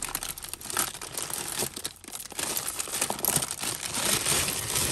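Plastic bags crinkling with many small irregular clicks, as tangled costume jewellery is handled and pulled apart by hand.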